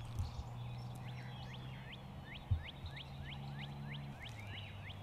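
A bird calling a quick, even series of about a dozen short rising whistled notes, roughly three a second, over a low steady hum, with a single thump about halfway through.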